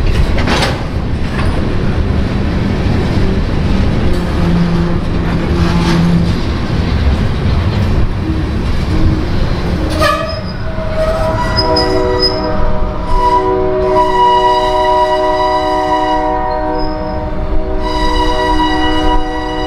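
Freight train tank cars rolling past on their wheels and rails, with a brief wheel squeal, until the last car clears about halfway through. Then a diesel locomotive's multi-chime air horn sounds long, loud blasts, with a short break near the end.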